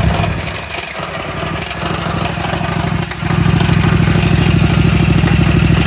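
Scag V-Ride stand-on mower's Kawasaki petrol engine idling, with a rattling noise that the owner takes for a pulley noise rather than an engine fault. It runs quieter at first and gets louder about three seconds in.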